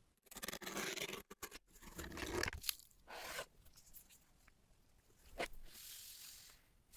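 Packaging of an Apple AirPods Pro box being torn open and handled: several bursts of tearing and crinkling, then a sharp click about five and a half seconds in and a softer rustle after it.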